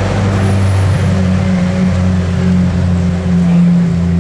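McLaren Senna's twin-turbo V8 running at low revs as the car drives slowly past. It is a steady low drone that swells slightly about three and a half seconds in.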